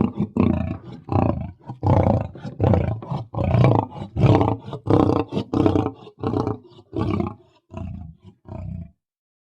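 Mountain lion roar sound effect: a rapid string of short, harsh roars about two or three a second, growing shorter and weaker before stopping near the end.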